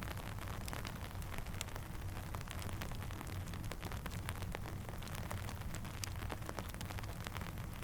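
Steady rain with many small, sharp, irregular ticks over a low, even rumble.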